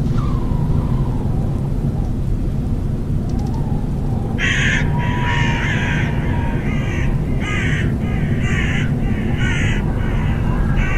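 A bird cawing, a run of about six or seven harsh calls starting about four seconds in, over a steady low rumble of thunder and rain in a spooky Halloween ambience mix.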